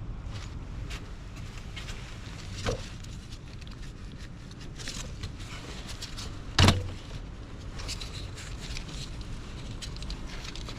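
Socket wrench working on the throttle body's Torx bolts: scattered light clicks and metallic taps, a small knock a little under three seconds in and a louder sharp knock just past the middle, over a steady low background rumble.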